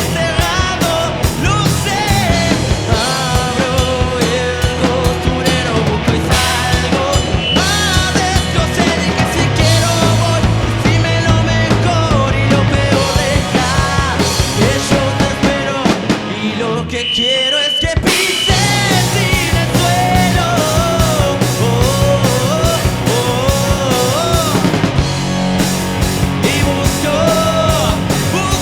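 Live rock band playing an instrumental stretch: drums, bass and melodic lead lines. About two-thirds through, the low end drops out briefly under a single high held note, then the full band comes back in.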